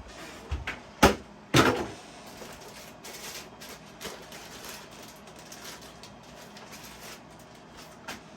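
Two sharp clacks about a second apart as a model train boxcar and its box are handled, followed by quieter clicking and rustling as it is moved about.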